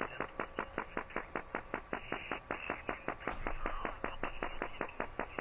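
The Soviet 'Woodpecker' over-the-horizon radar signal received on a shortwave radio: a rapid, even tapping of about ten pulses a second over radio static.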